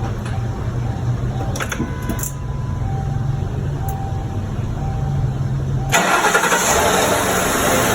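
The 2008 Mercury Grand Marquis's 4.6-litre V8 running just after a spark plug replacement, a steady low hum with a short tone repeating about once a second. About six seconds in, the sound changes abruptly to a louder, hissier engine noise.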